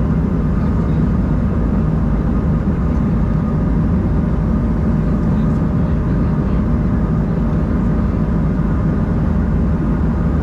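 Cabin noise inside an Embraer 190-E2 airliner: a steady rush of engine and airflow with a constant low hum from its turbofans.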